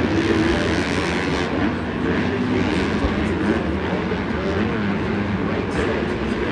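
Several dirt bike engines revving and changing pitch together over a steady wash of noise.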